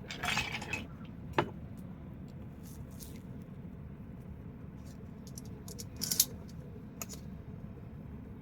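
Wood fire crackling, with scattered sharp pops: a short run of crackles at the start, a single loud pop a little over a second in, and another run of crackles with a loud pop about six seconds in, over a steady low rush.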